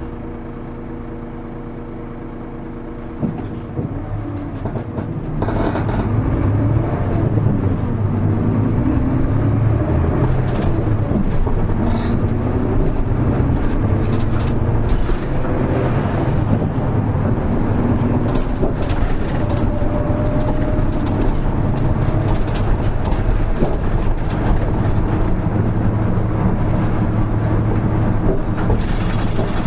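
Interior running sound of a Hino KL-HR1JNEE city bus: the diesel engine idles steadily for a few seconds, then the bus pulls away. The engine note climbs and drops through the gears as it accelerates, then settles into steady running with road noise and scattered rattles.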